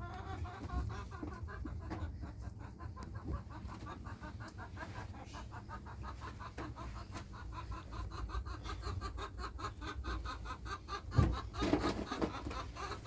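Chickens clucking in quick, repeated short notes, several a second, over a steady low rumble, with a louder burst about eleven seconds in.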